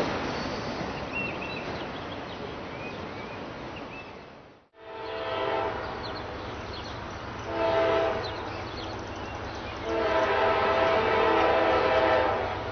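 Freight diesel locomotive's multi-note air horn sounding a short blast and then a longer blast. Before it there is a steady rushing noise that fades out.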